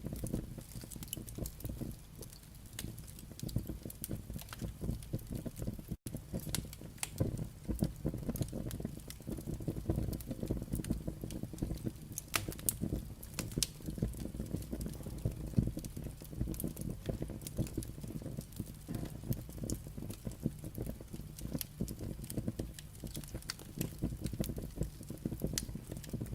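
Firewood burning, crackling: irregular sharp pops and snaps over a low rumble of the fire. The sound cuts out for an instant about six seconds in.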